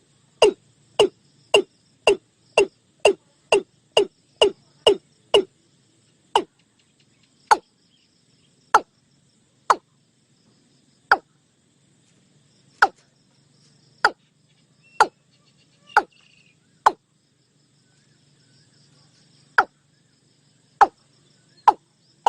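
Watercock calling: a series of short, sharp notes, each dropping quickly in pitch. They come about two a second at first, then slow to one every second or two with longer gaps.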